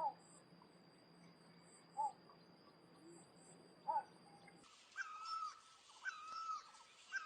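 Faint bird calls. Short falling calls come about every two seconds, then a different wavering call repeats about once a second in the last part.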